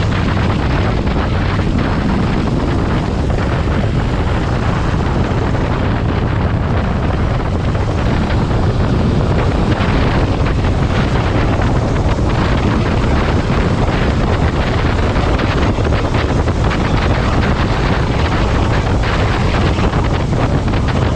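Steady, loud wind rushing over the microphone while riding a motorcycle, with the bike's engine running underneath.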